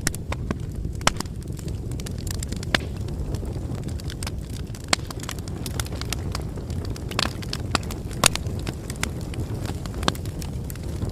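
Bonfire burning: a steady low rumble of flames with irregular sharp crackles and pops, a few of them louder.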